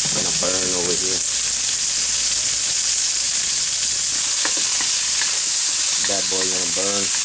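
Bacon sizzling hard as it fries in a wok over high heat, stirred with a spatula, with a few sharp crackles of spattering fat about halfway through.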